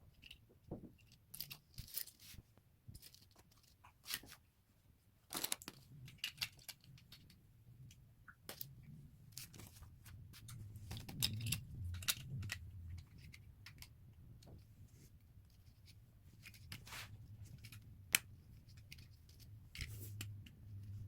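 LEGO pieces being handled and pressed together: scattered small plastic clicks and rustling at irregular intervals.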